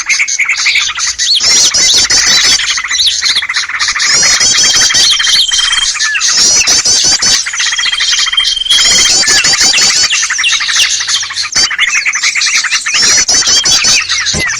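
Bird-lure track of many small songbirds chirping and chattering at once, dense and loud, with a held high whistle that recurs every few seconds. It is a trapping call (suara pikat) meant to draw small birds in.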